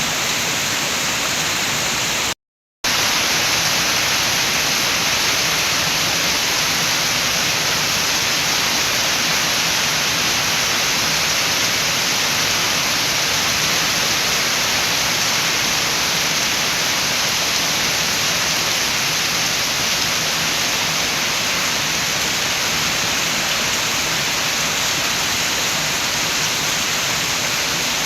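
Steady rain with wind: a loud, even hiss with no single drops or gusts standing out. It cuts to complete silence for about half a second, about two and a half seconds in, then comes straight back.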